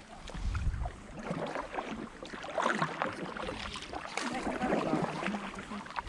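Kayak paddles dipping and splashing in the sea as an inflatable kayak is paddled along, in uneven strokes, with a low thump about half a second in.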